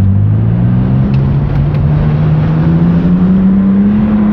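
BMW E36 M3's straight-six engine, with a newly installed exhaust, heard from inside the cabin pulling hard in one gear: its pitch climbs steadily and levels off near the end.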